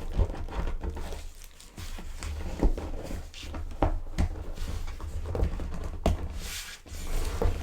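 Handling noise from a large Mondo 1/5 scale Battle Cat toy figure being moved about: irregular clicks, knocks and low bumps over a steady low rumble.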